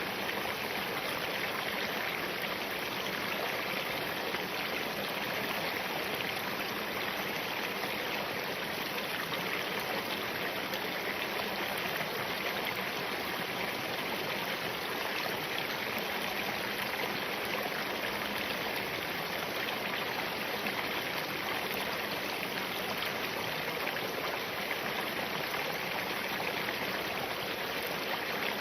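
Spring-fed mountain stream running over rocks, a steady, even rush of water with no let-up.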